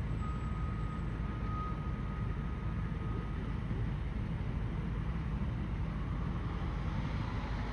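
Steady low rumble of vehicle engines running at an emergency scene by a road, with a faint steady whine during the first half.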